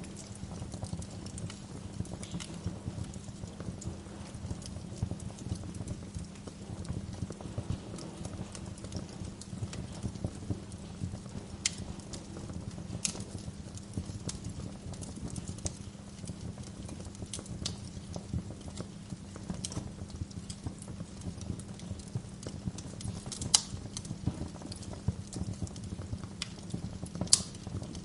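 Wood fire in a fireplace crackling steadily over a low, even hum, with sharp pops every few seconds; the loudest pops come near the end.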